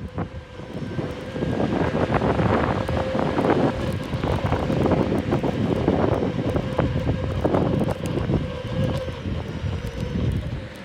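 Wind buffeting the microphone of a rider on a moving electric unicycle, a gusty rumble with a faint steady hum underneath.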